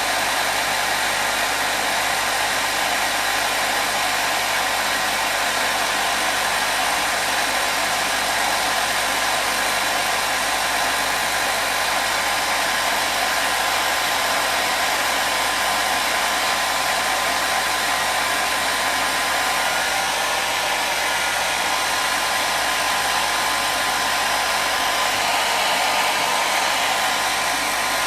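Hair dryer blowing steadily: an even, unbroken whoosh of air with a faint motor whine, played continuously as white noise for soothing a colicky baby.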